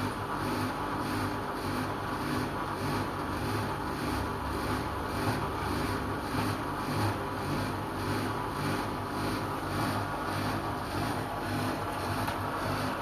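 LG washing machine running through its cycle: a steady motor hum with a regular swishing pulse, about two to three a second, as the drum turns the load.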